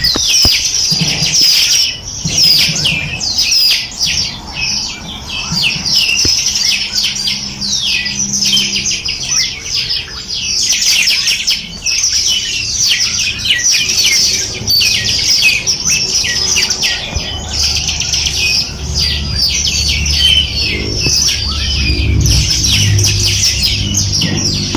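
A dense chorus of many small songbirds chirping and trilling rapidly and without pause. From about six seconds in, a faint low steady droning tone sits underneath.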